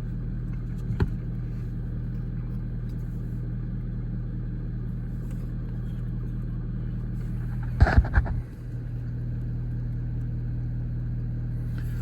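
Ford 6.7-litre Power Stroke V8 turbo-diesel idling with a steady low hum. A faint click comes about a second in, and three sharp knocks close together about eight seconds in.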